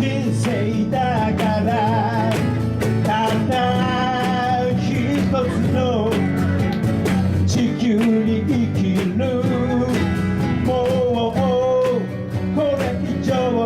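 Live band playing a song: a wavering lead melody over a steady bass line and regular drum beats, with guitar.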